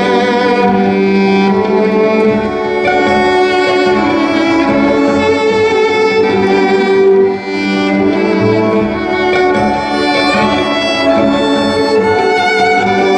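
Live music: a violin plays an instrumental passage of sustained bowed notes with vibrato over a layered, held accompaniment, in a break between verses of an indie-pop song.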